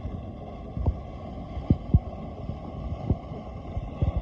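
Mud pot at Yellowstone's Mud Volcano area bubbling, with a steady low rumble and irregular low thuds as gas bursts through the mud.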